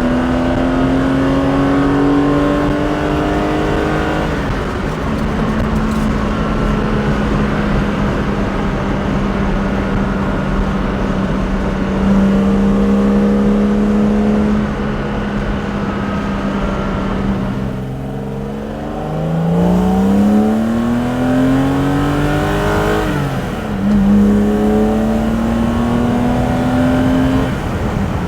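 BMW S38B36 3.6-litre straight-six with individual throttle bodies and a custom exhaust, under way. It pulls up through the revs at first, holds a steady note for a long stretch, then after a brief lift pulls hard with the revs climbing. The revs drop sharply on an upshift about two-thirds of the way through, climb again, and settle.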